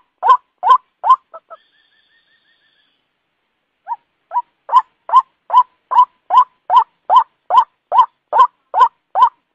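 White-breasted waterhen calling: loud, evenly repeated kwak notes, about two and a half a second. The notes break off about a second in, a faint thin trill follows, and after a pause of about two seconds the calls start again softly and build back to full strength.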